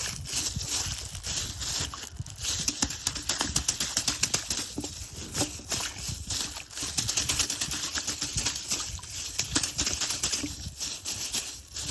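Water slime being squeezed and kneaded inside a plastic bag: a dense, uneven run of quick crackling clicks and crinkles of the plastic.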